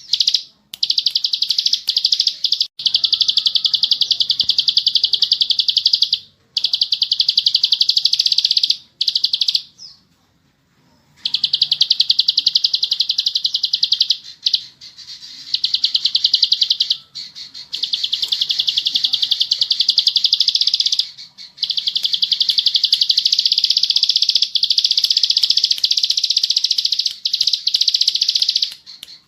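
Plain prinia (ciblek sawah) singing its rapid, buzzing 'ngebren' trill. The song comes in long, high-pitched runs of several seconds, broken by short pauses.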